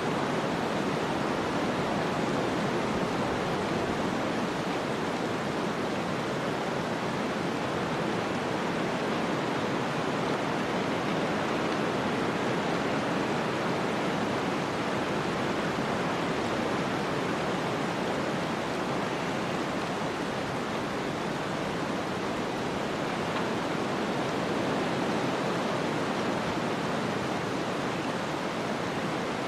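Snowstorm ambience: a steady, even rush of wind-blown noise that never changes, with no distinct sounds standing out.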